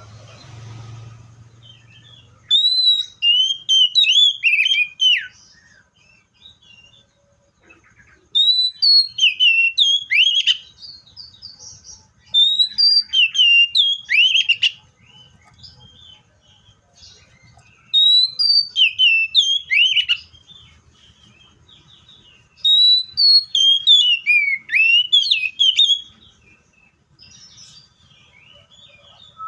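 Seychelles magpie-robin singing: loud phrases of sliding, whistled notes, each burst two to three seconds long, repeated five times with short pauses between.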